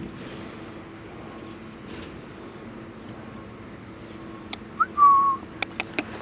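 Thin, high bird chirps repeating about once a second over a faint steady hum. About five seconds in comes a short, loud whistle that rises and then holds, followed by a few sharp clicks.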